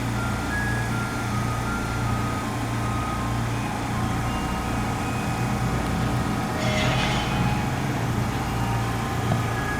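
Kintetsu Minami-Osaka Line electric train at the station, with a steady low hum and a brief hiss about seven seconds in.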